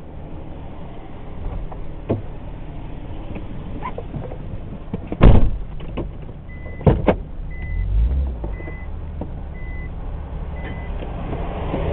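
Storm wind rumbling around a car, then two loud thumps about five and seven seconds in, followed by a car's warning chime beeping five times at an even pace, under a low rumble.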